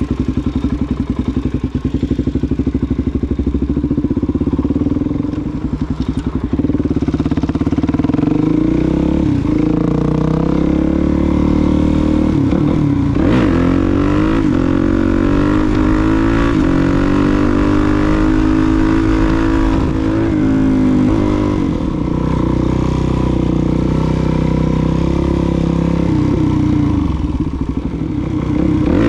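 Suzuki DR-Z400SM's single-cylinder four-stroke engine, running at a steady idle for the first several seconds, then revving up and down repeatedly as the bike is ridden.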